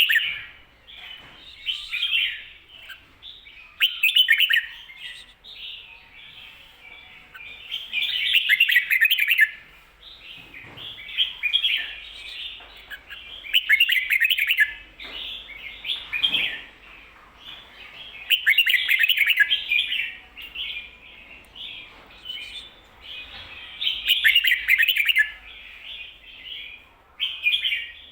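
Red-whiskered bulbul singing its doubled 'ko-ta-ra' song, a bright, loud phrase repeated every few seconds with softer chattering notes in between.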